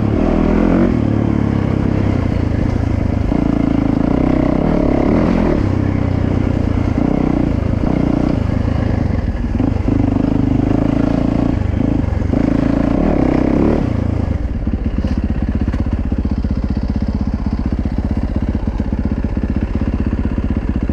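Dirt bike engine running under throttle, its pitch rising and falling as the rider works it, then dropping to a steady, even idle about two-thirds of the way through.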